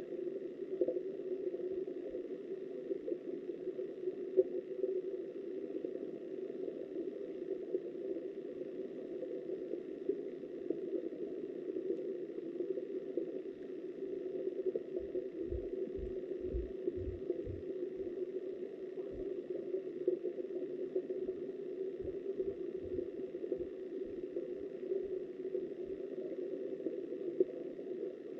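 Steady, muffled rush of river water heard underwater through a submerged camera, with a cluster of dull low thumps about halfway through.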